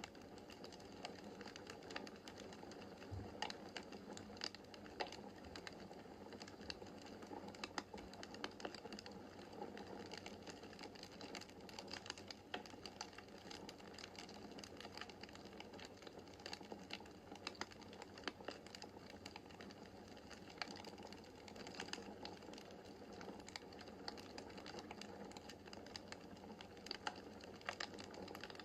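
Wood fire burning in a fireplace: a steady soft rush of flames with frequent, irregular crackles and sharp pops from the logs.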